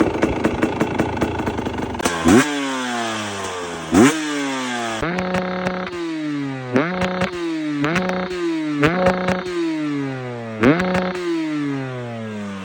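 Two-stroke engine running rough for about the first two seconds, then revved in repeated sharp throttle blips, about eight, each shooting up and dropping back, a few held for a moment. It settles back toward idle near the end.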